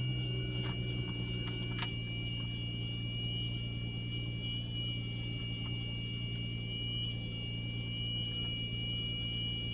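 2003 Audi Allroad 2.7T twin-turbo V6 idling evenly with a steady high-pitched whine over it. The whine does not change with engine speed and appears only for the first minutes after a cold start in the early morning.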